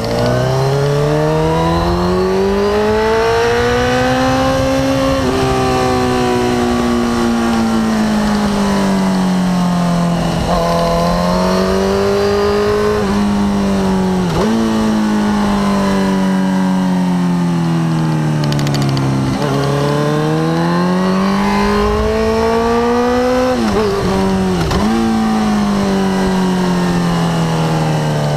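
Suzuki GSX-R sportbike's inline-four engine at track pace: the engine note climbs under throttle, drops in sharp quick dips at gear changes several times, and sinks gradually as the bike slows for corners. Wind rush over the fairing runs underneath.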